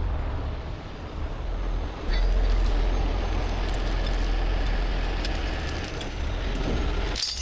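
Heavy tow truck's diesel engine running with a steady low rumble that gets louder about two seconds in, with light metallic clinking of chain.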